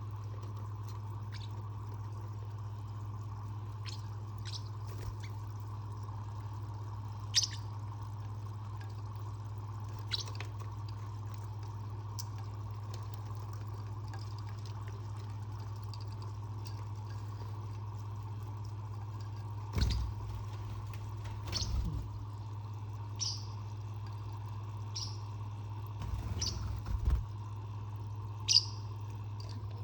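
Short, scattered high chirps from lovebirds and a parakeet over a steady low hum, with a few dull knocks about two-thirds of the way through.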